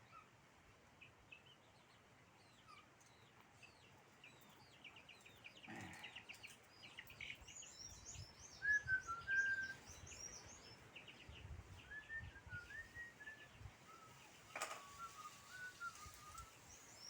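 Small birds chirping and calling, with a quick run of high chirps throughout and a clearer whistled phrase repeated several times in the second half. There is a brief low rumble near the middle and a single knock about 14 seconds in.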